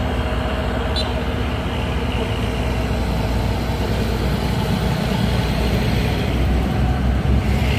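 Heavy diesel truck engine running, a steady low drone that grows a little louder in the second half.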